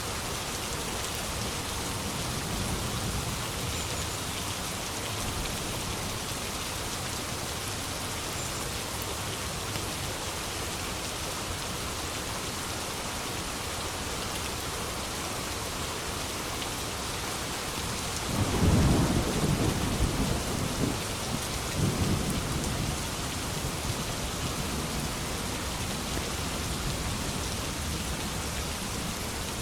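Steady heavy rain falling, with a roll of thunder rumbling in about two-thirds of the way through, peaking twice over a few seconds before fading back under the rain.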